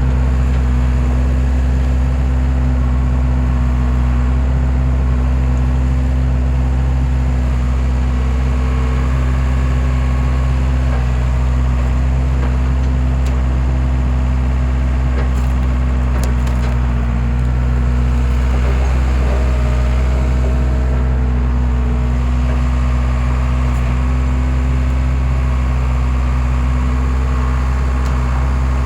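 Skid steer engine running steadily at constant speed, driving a homemade hydraulic log splitter, with a few faint sharp clicks about halfway through.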